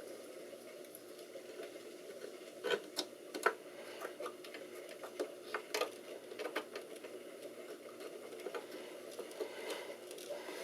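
Scattered sharp clicks and light plastic knocks of a RAM module being handled and pushed into a motherboard memory slot, with a cluster of louder clicks about three seconds in and a few more around five to six seconds.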